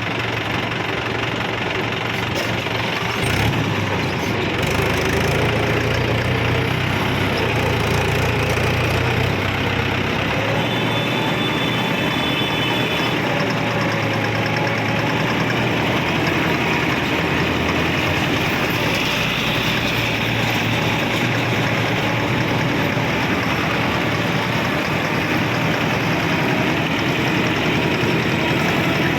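Mahindra tractor's diesel engine running steadily, with a brief faint high tone about eleven seconds in.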